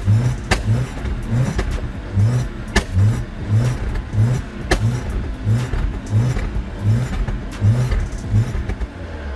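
BMW N45B16 four-cylinder petrol engine running rough just after a cold start in hard frost, pulsing in a steady rhythm of under two beats a second with sharp knocks over it. The owner ties this cold-start knock to lost oil pressure, most likely from a clogged oil pickup.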